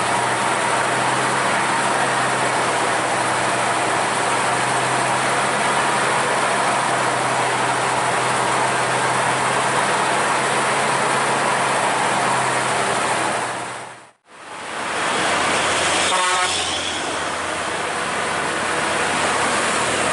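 Heavy diesel truck engine running steadily under road noise. The sound cuts out sharply for a moment about two-thirds of the way through, and a short horn note sounds soon after.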